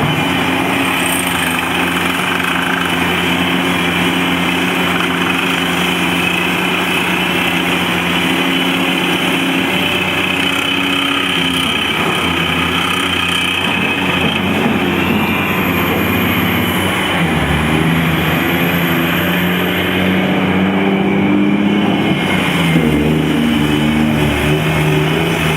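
Heavy diesel engines of a Caterpillar 385 excavator and haul trucks running at a loading site. The engine note is steady at first, then shifts up and down in pitch through the second half as the machines work under load.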